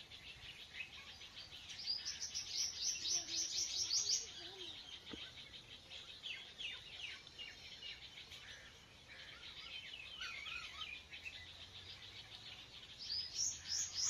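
Small birds chirping in the background: a quick run of short, high chirps about two seconds in, then scattered single chirps and calls.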